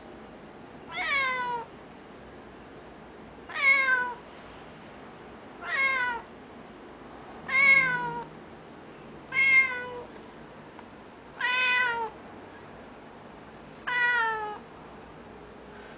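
Domestic cat meowing over and over: seven drawn-out "neowwn" calls about two seconds apart, each dropping in pitch at the end.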